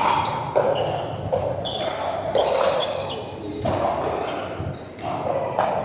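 Pickleball rally: paddles striking the hollow plastic ball in a series of sharp pops, roughly one a second, each with an echoing tail.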